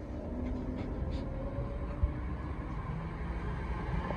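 Class 320 electric multiple unit moving through the platform: a steady low rumble with a faint electric hum.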